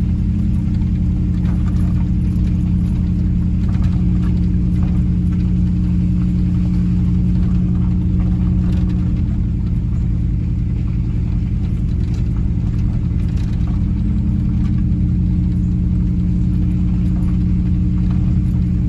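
Truck engine pulling steadily up a long, steep hill, heard from inside the cab as a constant low-pitched drone.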